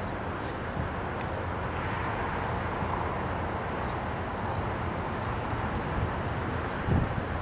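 Distant diesel freight train running, a steady low rumble that swells a little in the middle, with one low thump near the end.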